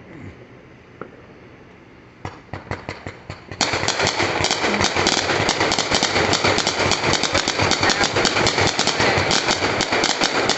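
Fireworks going off: a few separate sharp cracks about two seconds in, then a dense rapid crackle of small bangs, too fast to count, like a string of firecrackers.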